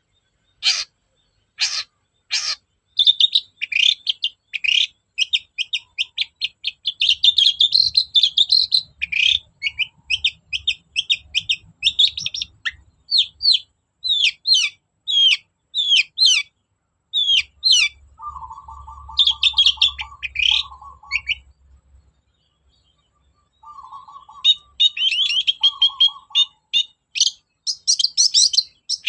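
Long-tailed shrike (cendet) singing a varied song: harsh rasping calls at first, then rapid chattering, clear whistled notes and lower buzzy phrases, with a brief pause past the middle before the chattering resumes.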